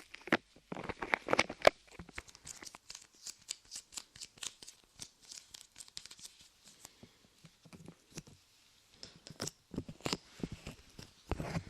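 Light clay being squeezed and pulled apart close against an ear microphone: a dense run of small sticky crackles and clicks, thinning out for a moment about two-thirds of the way through.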